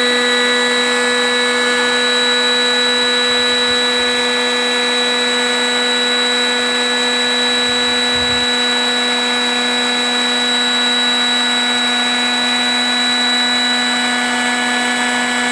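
Electric high-speed air pump running with a steady hum, inflating a truck bed air mattress.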